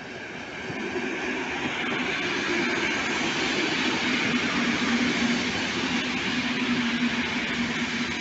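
Regional electric multiple unit passing close by: wheel and rail noise swelling over the first couple of seconds and then holding loud, with a low motor hum that drops in pitch about halfway as the train goes past.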